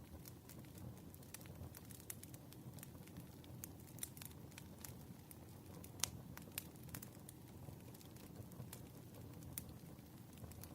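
Wood fire burning: a soft low rumble of flames with irregular crackles and sharp pops from the firewood, the loudest pop about six seconds in.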